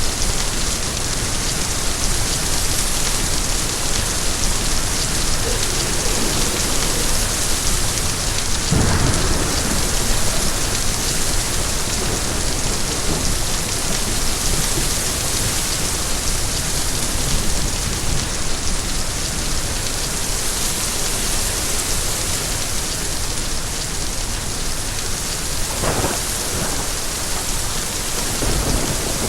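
Steady, heavy rain falling on surfaces, with a low rumble about nine seconds in and another near the end.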